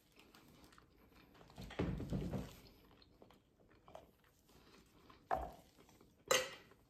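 Close eating sounds of a mouthful of seafood boil being chewed, with soft smacking, and a sharp click a little after six seconds in.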